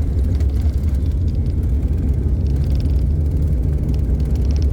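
Steady low rumble of an airliner's engines and airflow heard from inside the passenger cabin, with a faint steady hum over it.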